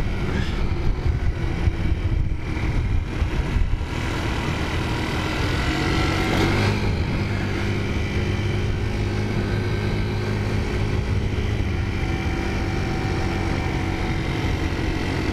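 Small 50cc scooter engine running steadily at riding speed, heard from the rider's seat, with wind rumbling on the microphone, gusty for the first few seconds.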